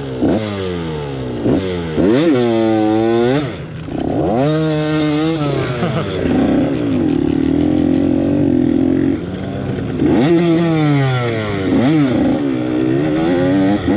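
Husqvarna TC85's 85cc two-stroke dirt bike engine being ridden, revving up and dropping back several times, with a steadier stretch partway through.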